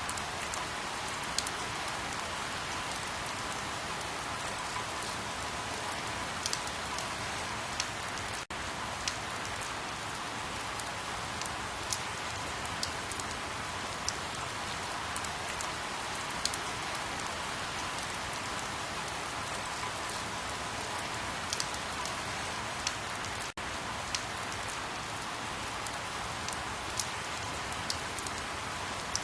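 Steady rain: an even hiss with scattered sharp ticks of individual drops. The sound drops out for an instant twice.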